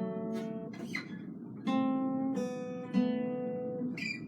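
Acoustic guitar played slowly, improvised: three strummed chords, each left to ring out and fade before the next.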